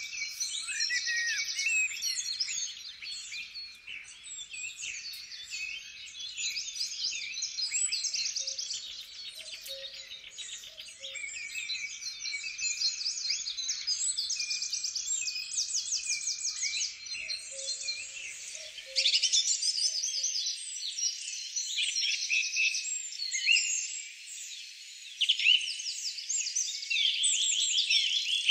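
Woodland songbirds singing and calling together in a dense, continuous chorus of high chirps and trills, with no single bird standing out for long.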